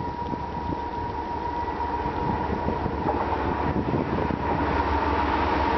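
Freight train led by two GE Evolution-series diesel locomotives approaching, its low engine rumble growing steadily louder. A steady high tone sounds throughout.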